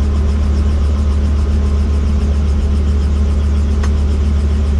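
Helicopter in flight: a steady, loud low drone of rotor and engine that stays even throughout.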